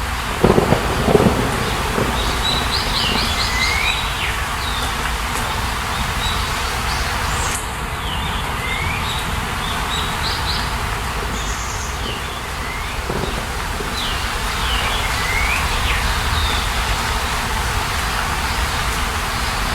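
Birds singing over a steady rushing background: a short phrase of quick high notes ending in a falling swoop, repeated about every six seconds. A few low thumps about a second in.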